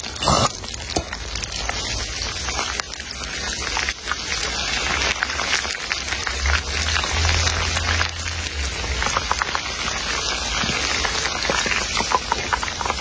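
Steady crackling sizzle, like food frying in hot oil, with a low hum for a couple of seconds around the middle.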